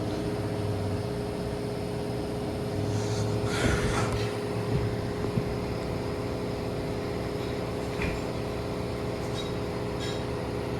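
Steady machine hum holding one constant tone, with a brief rustling noise about three and a half seconds in and a couple of faint clicks later.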